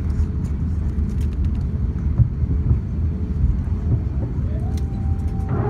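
Steady low rumble inside the cabin of an Airbus A350-941 airliner, with a few faint clicks; near the end a whine starts to rise in pitch.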